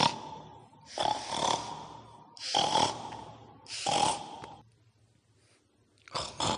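Pig-like snorting grunts, four of them spaced a little over a second apart, then a pause; a louder, busier sound comes in near the end.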